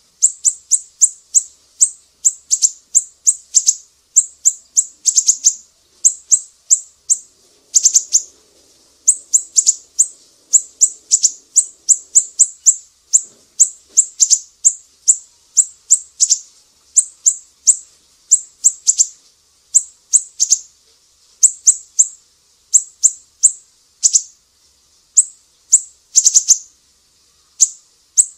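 Recorded songbird calls: high, sharp chips sweeping downward, repeated several times a second in quick clusters, with a few longer, louder calls among them.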